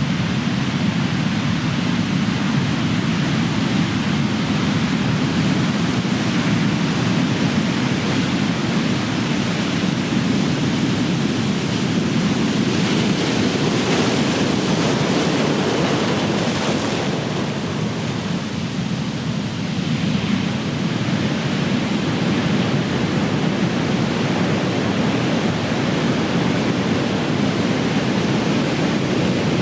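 Ocean surf: big waves breaking and washing continuously in a steady roar of water. About halfway through, a wave's hissing wash swells louder, then eases into a short lull before the surf builds again.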